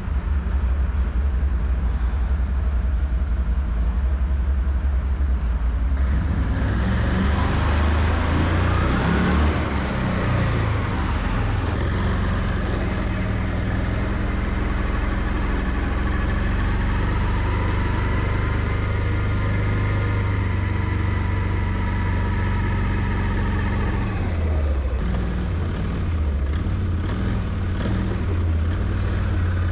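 Can-Am Outlander 650 ATV's V-twin engine running under load while snow plowing. Its pitch rises and falls as it revs, once about six to eleven seconds in and again in a long arc from about sixteen to twenty-four seconds.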